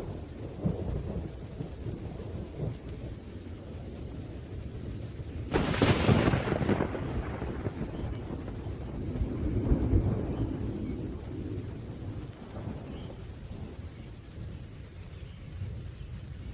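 Thunderstorm: steady rain with low rolling thunder, a sudden sharp crack about five and a half seconds in, and the rumble swelling again a few seconds later before fading.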